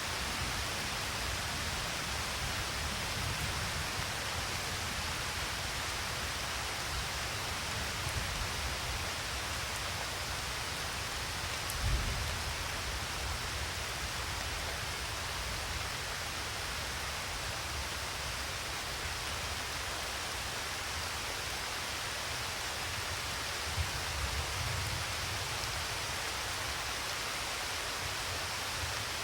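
Steady rain with an even hiss, with no let-up. A brief low thump comes near the middle, and a short low rumble about three quarters of the way in.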